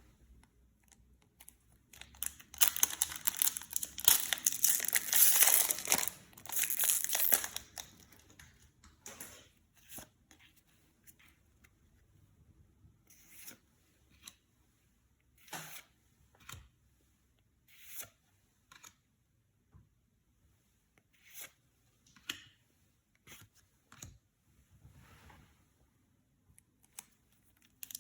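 Yu-Gi-Oh card packaging being torn open and crinkled by hand: a dense stretch of tearing and crinkling a couple of seconds in, lasting several seconds, then scattered short rustles and taps.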